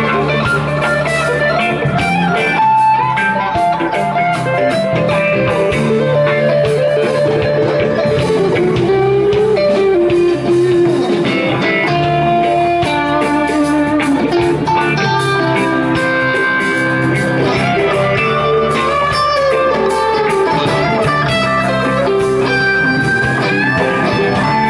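Live reggae band playing an instrumental break, an electric guitar taking melodic lead lines over bass and drums.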